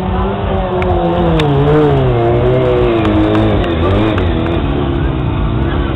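Kawasaki ZX-6R 636 inline-four sport-bike engine revving high, the throttle rocked back and forth so the pitch wavers up and down and sinks slowly over the few seconds, as when holding a wheelie.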